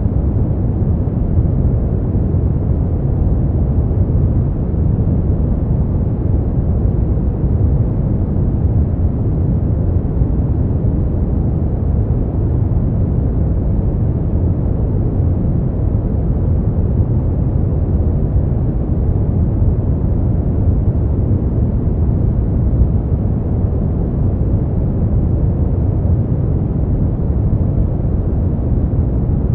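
Continuous sleep noise, steady and unchanging, deep and dark in tone, with its weight in the low end and no hiss at the top.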